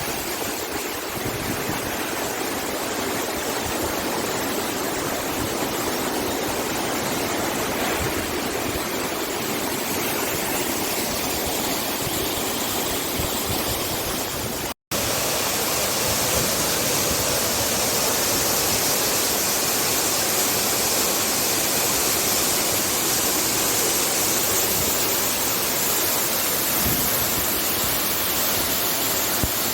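Steady rushing of water, as from a stream or waterfall. It cuts out for an instant about halfway, then carries on slightly louder and hissier.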